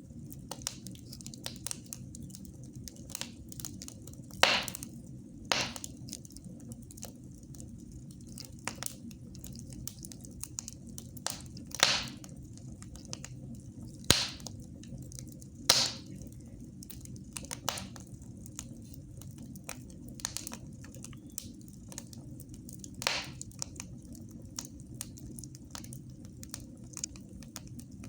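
Wood fire burning in a fireplace: frequent small crackles, with about seven louder sharp pops at irregular intervals, over a steady low hum.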